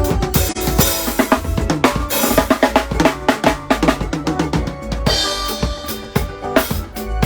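Drum kit playing a busy beat, with bass drum, snare and cymbal hits coming several times a second over a heavy bass line and other pitched instruments, as a band plays through a sound check.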